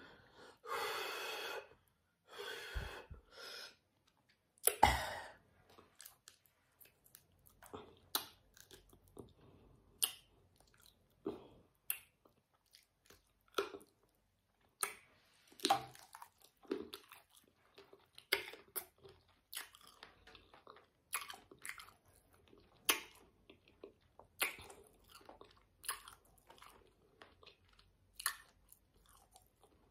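Close-up chewing and crunching of spicy fried chicken feet, with short sharp crunches about every second or so. A few longer, louder noises come in the first five seconds.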